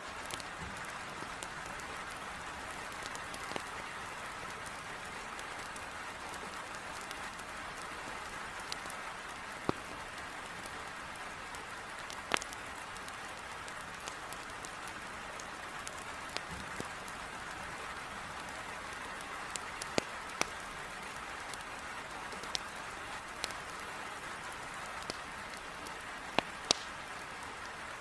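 Heavy rain falling in a steady hiss against a window, mixed with a wood fire crackling: a dozen or so sharp, irregular pops, the loudest near the end.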